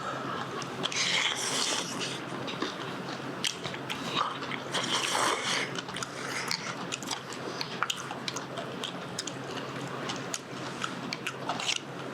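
Close-up eating sounds: crunchy cubed radish kimchi being bitten and chewed, with many small clicks and two short hissing sounds, about a second in and about five seconds in.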